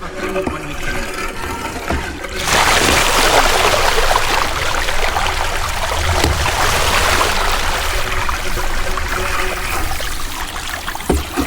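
Loud, steady hissing rush that starts abruptly about two and a half seconds in and keeps on, 'hissing like crazy', with the bicycle in the water.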